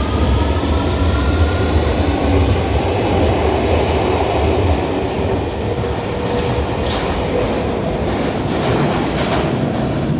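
London Underground Victoria line train (2009 Stock) pulling out of the platform, its traction motors whining up in pitch as it accelerates over a heavy low rumble. Wheels clatter on the rail joints in the second half as it picks up speed.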